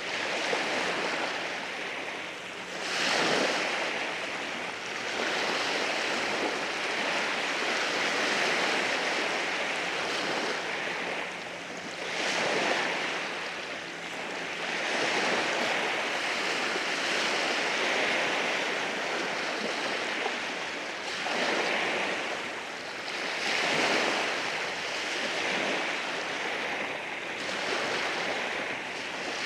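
Ocean waves breaking and washing in over rocks, a continuous hiss of surf with louder surges every several seconds as each wave comes in.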